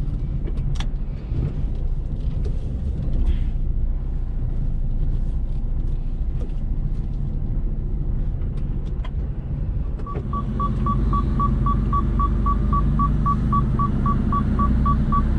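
Low, steady rumble of a lorry's diesel engine heard from the cab, with a few small clicks early on. About ten seconds in, the rumble grows louder and a fast, steady electronic beeping starts, about five beeps a second.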